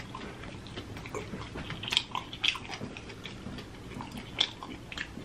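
Close-miked chewing and wet lip-smacking of a sauce-coated chicken wing: irregular soft smacks and clicks, with a few sharper ones about two seconds in and again near the end.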